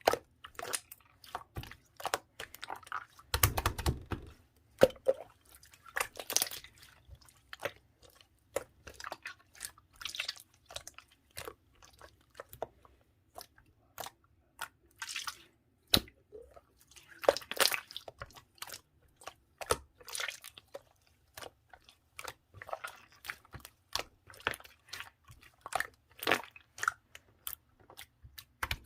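Clear slime being squeezed, stretched and pressed by hand, giving a dense run of small sticky clicks and pops, with a louder, fuller squelch about three seconds in.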